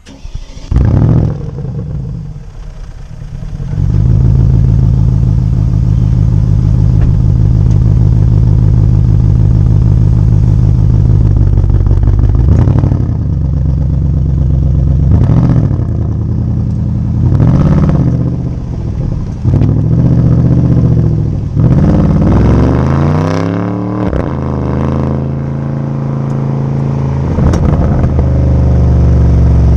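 Porsche Cayenne Turbo S twin-turbo V8 starting with a loud bark about a second in, then settling to a quieter idle. From about four seconds it runs at a steady, loud, deep drone. Later it gives a series of sharp revs a couple of seconds apart and one long climbing rev, and ends on a steady loud drone.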